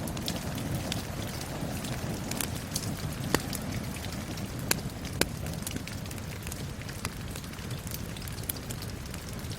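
Steady rain with a wood fire crackling over it: a constant low rush of rain and sharp, irregular pops and snaps from the burning logs.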